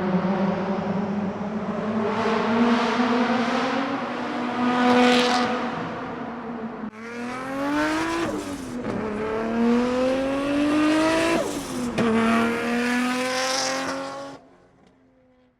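Nissan Skyline R32 GT-R's RB26 straight-six with a big single turbo, running through a titanium 3.5-inch straight-pipe exhaust under acceleration. From about seven seconds in, the pitch climbs hard and drops back twice at gear changes, then fades out near the end.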